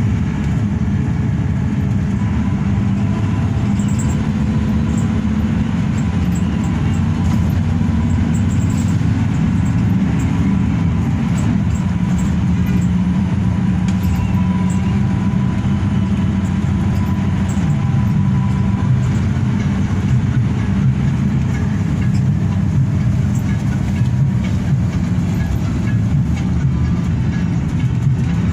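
Hino RK8 express bus under way, heard from the passenger cabin: a steady low rumble of engine and road noise with no change in pace.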